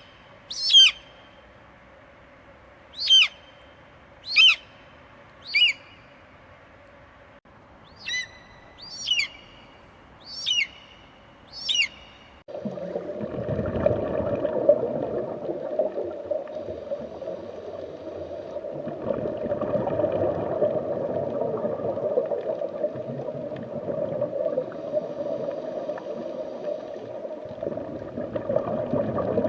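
An animal gives eight short, high calls, each a quick downward-sweeping whistle, in the first twelve seconds. About twelve seconds in, the sound changes abruptly to a steady, rough, lower-pitched noise that continues to the end.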